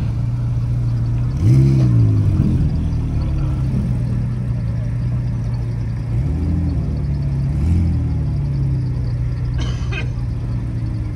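Car engine running with a steady low drone, blipped up in short revs about a second and a half in and twice more past the middle.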